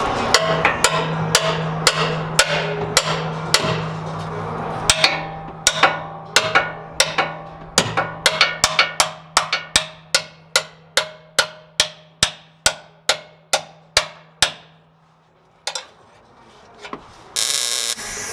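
Hammer striking steel in a long run of sharp, ringing blows, about two a second, while sheet metal is bent in to fit the cut body mount. A steady low hum runs underneath and stops soon after the hammering ends; a short hiss comes near the end.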